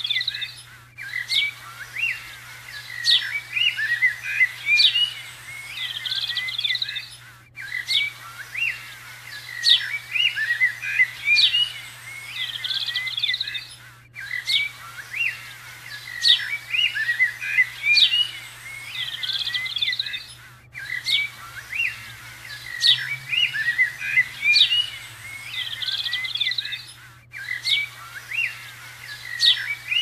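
Many songbirds chirping and calling in quick, overlapping short notes. The chorus drops out briefly about every six and a half seconds.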